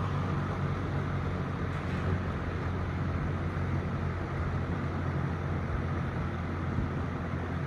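Emerson Electric all-metal box fan running on low speed: a steady motor hum under an even rush of moving air.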